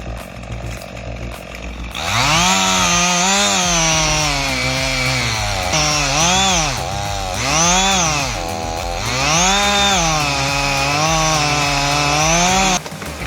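Small petrol engine running hard, its pitch sagging and climbing back again four or five times. It starts about two seconds in and cuts off suddenly near the end.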